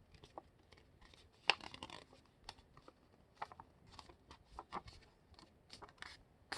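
Faint crinkling and rustling of a sheet of paper being handled and adjusted as it is folded, in short scattered crackles, the loudest about a second and a half in.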